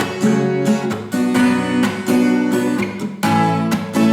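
Acoustic guitar strummed in a steady six-stroke pattern ('шестерка'), downstrokes struck with the index fingernail and upstrokes with the fingertip pad for a brighter, punchier sound.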